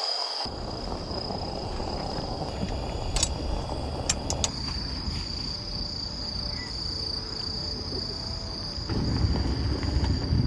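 Insects trilling steadily at one high pitch over low outdoor noise, with a few light clicks around the middle and a low rumble near the end.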